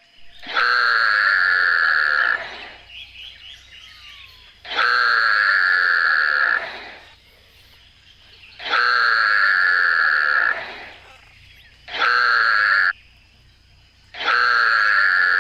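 An animal call, the same call repeated five times with short gaps, each lasting about two seconds except a shorter fourth one, with a steady high pitch.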